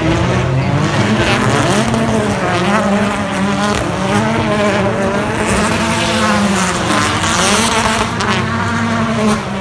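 Several BTCC touring cars racing past in a group, their two-litre turbocharged four-cylinder engines at full throttle, the overlapping engine notes rising and falling through gear changes.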